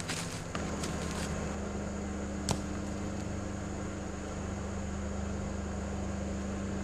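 Vehicle engine running steadily as it hauls a load of firewood logs. Its hum steps up slightly about half a second in, and there is a single sharp click about two and a half seconds in.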